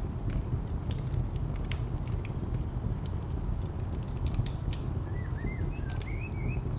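Wood fire crackling with scattered sharp pops over a steady low rumble of distant traffic. A few short bird chirps come in near the end.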